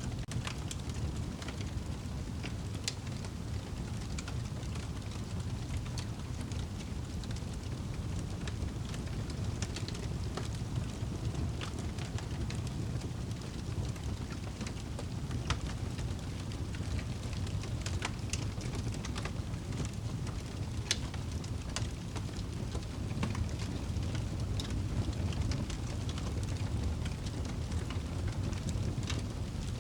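Fire burning in a fireplace: a steady low rumble with scattered sharp crackles and pops at irregular moments.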